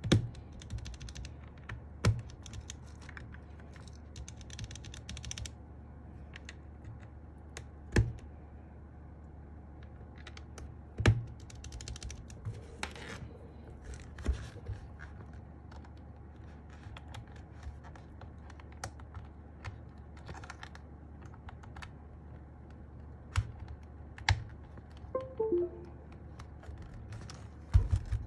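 Scattered sharp plastic clicks, a few seconds apart, as MMD Panda mechanical keyboard switches are pressed into a hot-swap board, with some rustling between them in the first few seconds.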